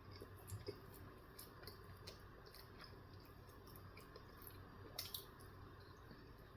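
Faint chewing and wet mouth clicks of a person eating a breakfast bagel sandwich, with a slightly louder click about five seconds in.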